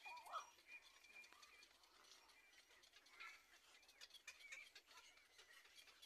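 Faint bird calls: a few short rising chirps just after the start, a thin steady high note in the first second and a half, and a few more faint calls a little after the middle.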